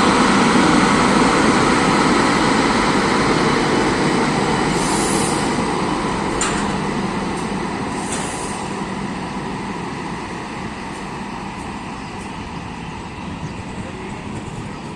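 LHB passenger coaches of a departing express rolling on the track, a steady rumble that fades gradually as the train pulls away. A single sharp click sounds about six and a half seconds in.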